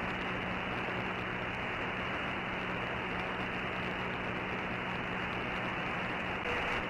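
Steady hiss and static from a shortwave/CB receiver tuned to an open 11-meter channel with no station coming through, the sound cut off above about 3 kHz by the receiver's filter, with a faint steady low hum underneath.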